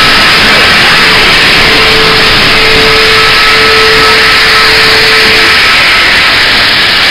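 Loud, steady running noise of a steam train, with a faint steady tone that stops about five and a half seconds in.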